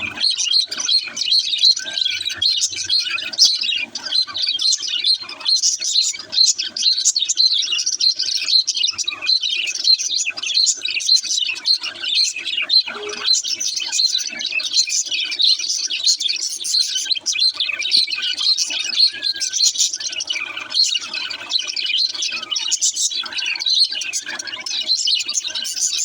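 Small pet birds chirping and twittering, a dense, continuous chatter of high chirps with no pause.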